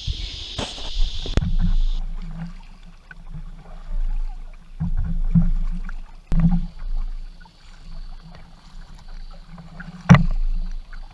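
Canoe being paddled: uneven swells of water noise from the paddle strokes, with a few sharp knocks against the hull, the loudest about ten seconds in.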